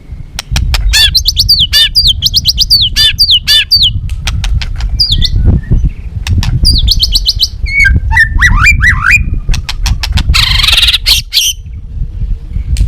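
White-rumped shama singing: sharp clicks mixed with quick runs of falling whistled notes, then a harsh scratchy burst near the end. A steady low rumble runs underneath.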